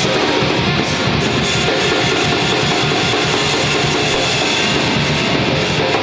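Loud, dense rock music: electric guitars playing over a drum kit.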